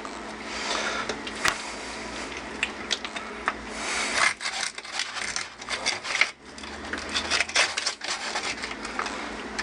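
Knife cutting through raw chicken on a cutting board: continuous rasping and rubbing with scattered clicks and knocks of the blade and board.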